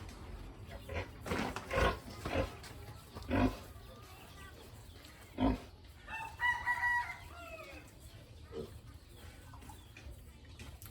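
Farmyard animals calling: a run of short loud calls in the first few seconds, and a longer pitched call about six seconds in.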